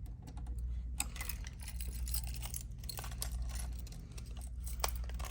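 A bunch of keys jangling and clinking as they are sorted through to find the right one, over a steady low hum.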